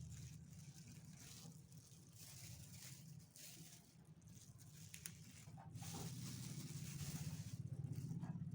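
Faint rustling and handling noises as an adhesive vinyl sticker is worked by hand, with a couple of soft clicks about five seconds in, over a steady low hum.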